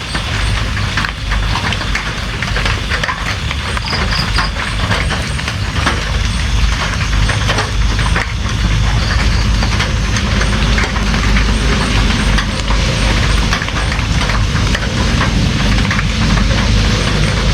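Steady heavy rain, with many separate drop ticks over a constant hiss and a deep rumble underneath.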